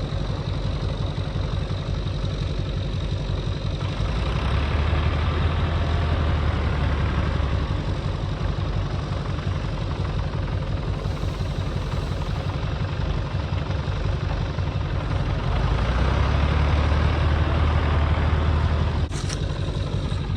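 Ford 445 industrial tractor's engine running steadily, growing louder and heavier twice for a few seconds each time. A sharp knock comes near the end, after which the engine is quieter.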